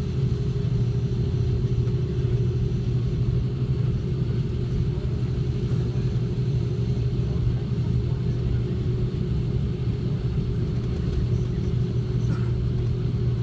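Airliner cabin noise: a steady low rumble with a constant hum.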